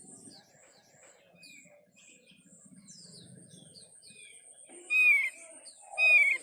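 Bird-lure recording of thick-billed white-eye (opior paruh tebal) calls: a run of quick, high, falling chirps, then two loud falling whistles, about five and six seconds in. A thin steady high tone runs beneath.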